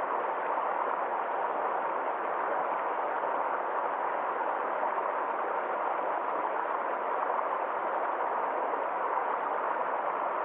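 Small forest stream flowing over stones, a steady, even rush of water with no change or break.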